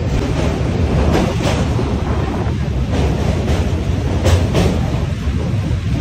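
Passenger train running along the track, heard from inside a coach: a steady low rumble with the wheels clacking over rail joints in pairs, three times.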